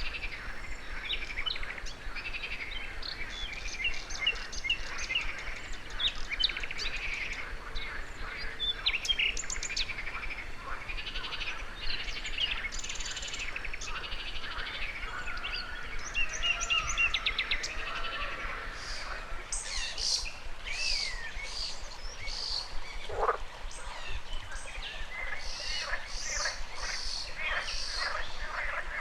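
A chorus of birds chirping and singing, with frogs calling. About two-thirds of the way in, a run of evenly spaced high calls starts, about two a second, and a single short rising call is heard.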